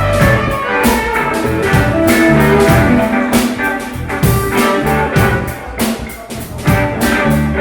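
Blues-rock band playing: electric guitar over a drum kit with a steady beat.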